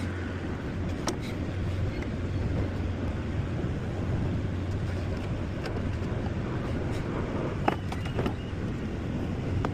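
An engine running steadily with a low hum, with a few sharp clicks, the loudest near the end.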